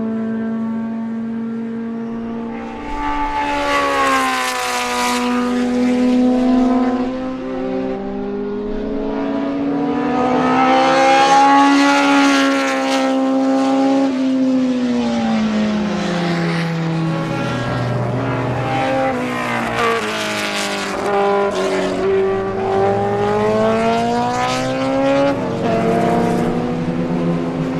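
BMW M12/7 2.0-litre four-cylinder Formula 2 racing engine running hard, its pitch climbing and falling in several long sweeps as the revs rise and drop.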